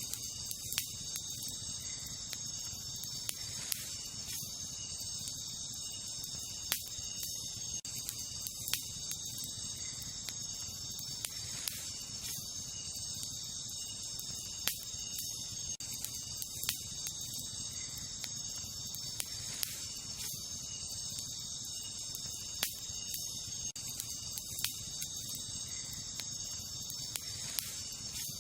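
Wood campfire crackling with sharp irregular pops every second or two, over a steady high-pitched chorus of night insects such as crickets.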